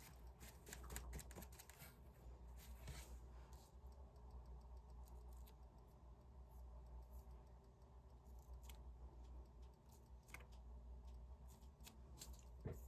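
Faint clicks, taps and light scraping of hand craft work on a tabletop, quick and close together at first, then sparse, with one sharper click near the end.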